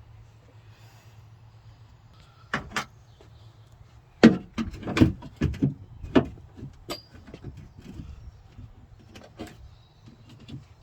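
Knocks and rattles of a replacement tailgate latch motor being handled and fitted into place inside a car's tailgate: two sharp knocks, then a quick run of knocks and clatter lasting two or three seconds, and a couple more near the end. A faint low hum runs underneath.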